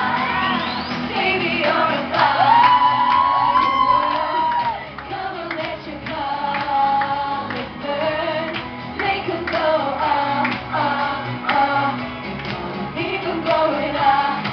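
Pop song sung live over a backing track, with a long held sung note about two to five seconds in.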